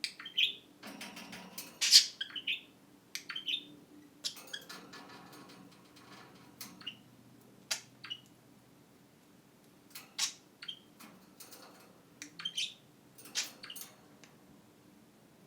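Pet budgerigars chirping and chattering in short, scattered calls, with sharp clicks between them and a couple of longer raspy warbles near the start.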